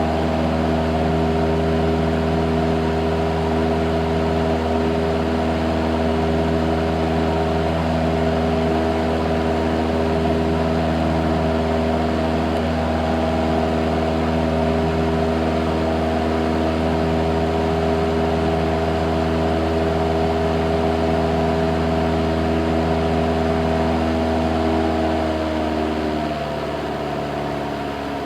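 Cessna 172's piston engine and propeller droning steadily, then stepping down in pitch and getting a little quieter about 26 seconds in, as engine speed is brought back.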